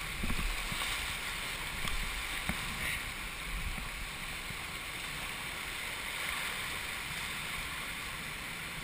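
River water rushing steadily around a whitewater raft, with a few low thumps in the first three seconds.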